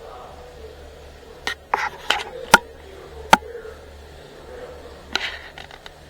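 Sharp clicks and knocks, hard objects tapping or clattering: about six between one and a half and three and a half seconds in, then a quicker cluster near the end, over a steady low hum.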